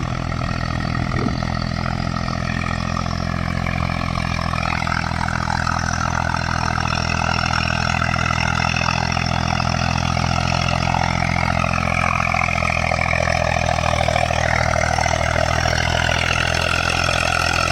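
Eicher 485 tractor's three-cylinder diesel engine running steadily at about 2000 RPM under the load of a two-bottom mouldboard plough cutting deep, growing slightly louder after about five seconds.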